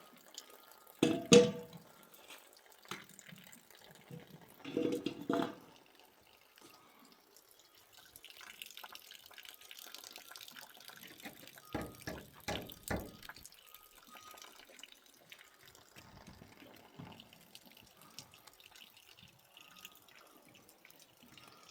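Water running and dripping faintly, with a few sharp clinks and knocks: a loud one about a second in, a pair around five seconds in, and several more around twelve to thirteen seconds in.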